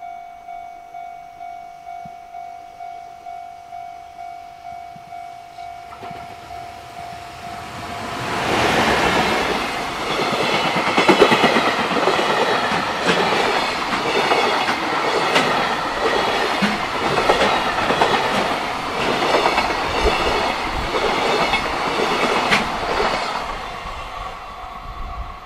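A level-crossing warning bell dings steadily, about twice a second. About eight seconds in, a JR Freight container train's wagons start passing close by, loud with rumble and the clickety-clack of wheels over rail joints, until the last wagons go by near the end.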